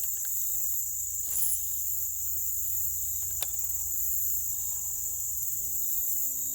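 Steady, high-pitched insect chorus droning without a break, with a couple of faint clicks in between.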